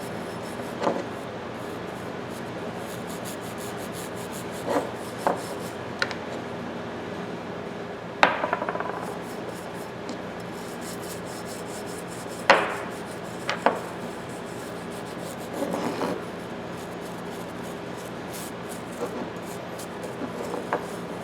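Oil being rubbed and wiped into a steel pipe wrench with a toothbrush and rag, over a steady low hum. About ten sharp knocks and clinks of the wrench being handled are scattered through it; the loudest come about 8 and 12 seconds in.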